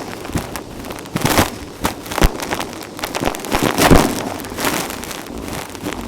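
Vacuum cleaner sucking up grit and dry dirt, with irregular crunching and crackling as debris rattles up the tool, and a few louder rushes.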